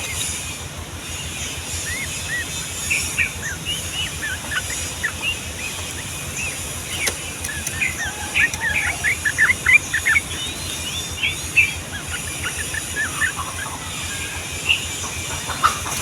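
Sooty-headed bulbul (trucukan) singing: runs of short, quick chirping notes that come thickest in the middle, over a steady background hiss.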